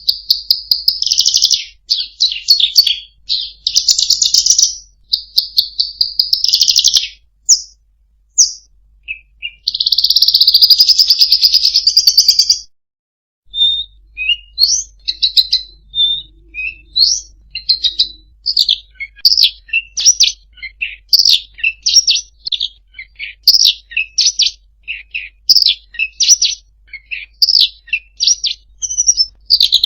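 Songbird song used as a masteran, a recording played to tutor caged songbirds: dense, rapid high phrases and a continuous trill, a brief break about halfway, then a long run of short, separate high chirps, several a second.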